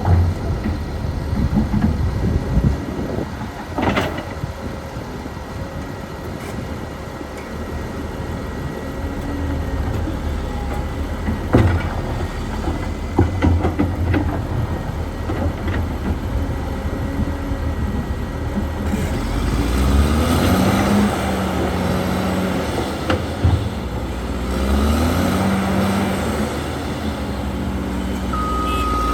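Cat D6R2 bulldozer's diesel engine running under load, with several sharp knocks in the first half. About two-thirds through, the engine revs up and its pitch rises and falls. Near the end a reversing alarm starts beeping.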